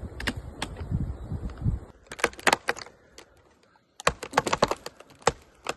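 Rapid, irregular sharp clicks and pops of a wind-cracked tree's wood fibres snapping under strain, thickest in the last two seconds. A low rumble comes first.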